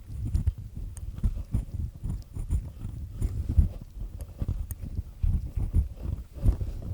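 Ear pick with a black triple-disc head scraping inside an ear: a dense, irregular run of low rubbing knocks with crisp crackles, the grinding sound of earwax being scraped loose.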